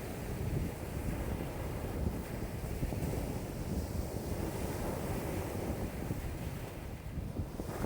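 Strong wind, about 5 m/s, buffeting the microphone over high lake waves washing in, as a steady low rumbling wash. It eases briefly near the end.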